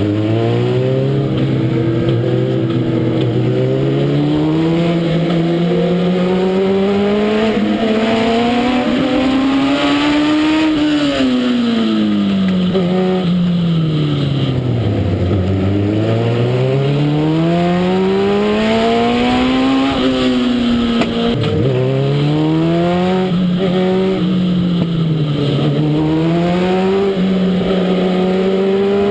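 Legend race car's Yamaha four-cylinder motorcycle engine running at racing speed, its revs climbing for several seconds and then falling away in long swells. The revs drop sharply about 21 seconds in before climbing again.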